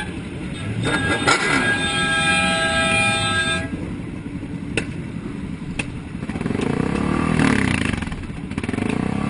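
A vehicle horn blares in one steady held blast of about three seconds over the low running of engines. Later, an engine revs up and back down, twice.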